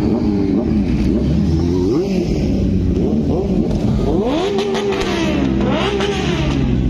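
Sport motorcycle engines revving, their pitch rising and falling again and again over a steady low rumble, with the most revving about two thirds of the way through.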